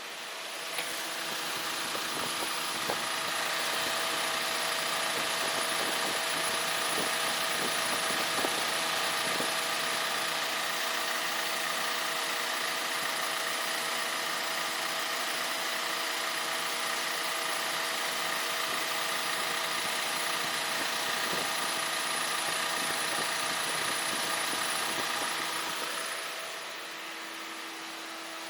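A car's electric fan spinning up over the first few seconds, running with a steady whoosh and hum, then winding down near the end.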